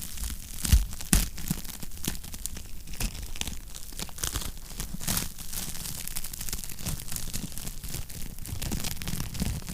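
Wood fire in a fireplace crackling and popping irregularly over a steady low rumble, with two loud pops about a second in.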